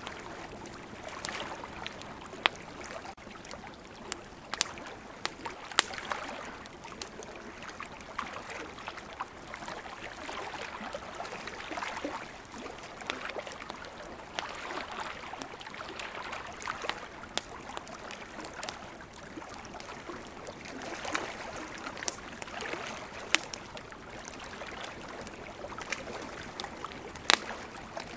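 Campfire crackling, with frequent small snaps and a few sharp, louder pops from the burning wood, over a steady wash of ocean surf.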